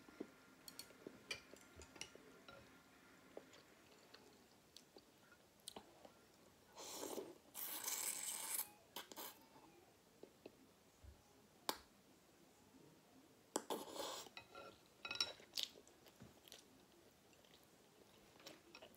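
A person eating with the mouth close to the microphone: quiet chewing of pork, shrimp and rice noodles with small wet clicks. There are louder noisy stretches about seven to nine seconds in and again around fourteen seconds.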